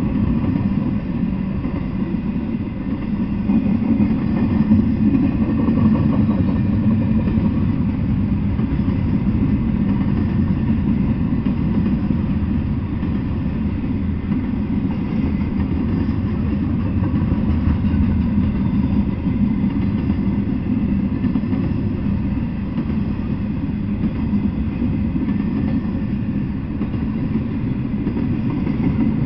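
Double-stack intermodal container train rolling past: a steady low rumble of the railcars' wheels on the rails.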